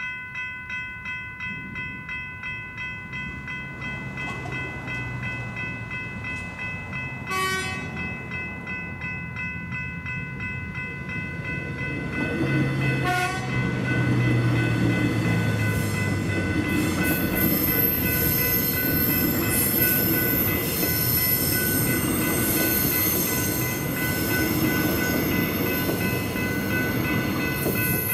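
General Signals Type 3 electronic level-crossing bells ringing in a steady pulse while an electric suburban train sounds two short horn blasts a few seconds apart and then runs over the crossing. The train's wheel and motor noise, with a high whine, gets louder and fills the second half.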